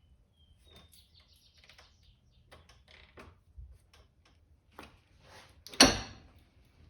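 Hand tools and metal engine parts handled during assembly of a small-block V8: scattered light clicks and scrapes, with one loud knock about six seconds in.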